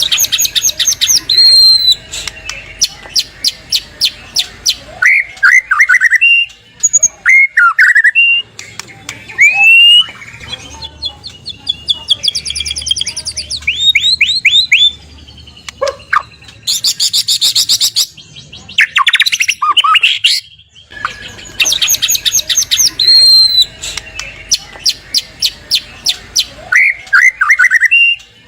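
White-rumped shama song: fast, dry rattling trills alternating with short whistled notes that sweep up and down. About twenty seconds in, the same sequence starts again, as in a looped lure recording.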